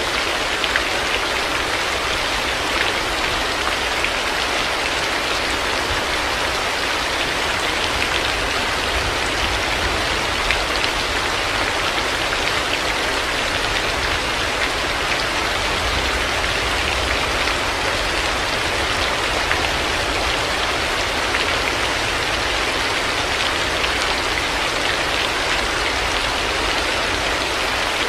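Heavy rain falling steadily, a dense even hiss with the patter of individual drops and a low rumble underneath.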